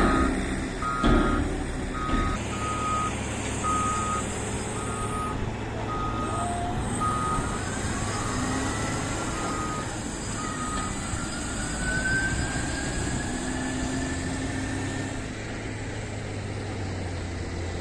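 A heavy vehicle's reversing alarm beeping at a steady pace, about three beeps every two seconds, over a diesel engine running low. The beeping stops about eleven seconds in. Two knocks sound at the start.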